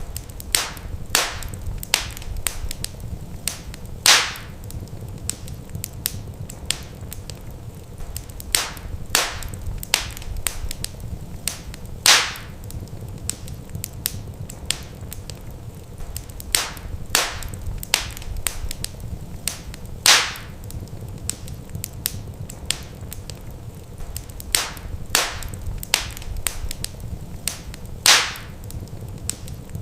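Wood fire crackling in a fireplace, with scattered sharp pops over a low steady rumble and a louder pop about every eight seconds.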